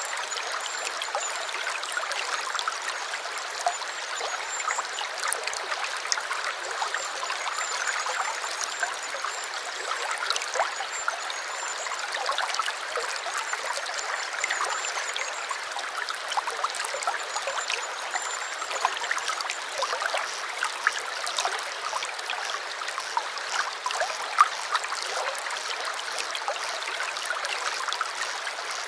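Small stream babbling and trickling steadily, full of small splashes. A faint, high, thin wavering call runs over it for much of the first two-thirds.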